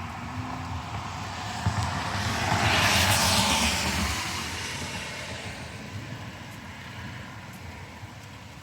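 A vehicle passing by, its noise swelling to its loudest about three seconds in and then slowly fading away.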